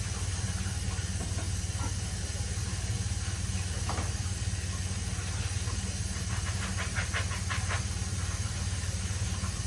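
Water running from a kitchen tap as a steady hiss, rinsing soaked black beans, over a constant low hum. A short run of light clicks comes about two-thirds of the way through.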